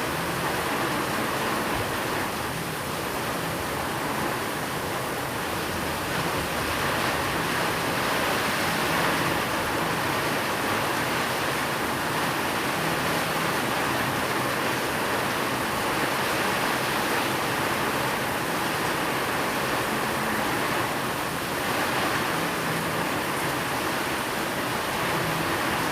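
Steady rain falling, a continuous even hiss with no pauses or thunderclaps.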